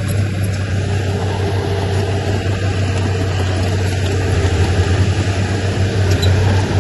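Heavy diesel engine of earthmoving machinery running with a steady low drone that turns into an uneven throb about four seconds in.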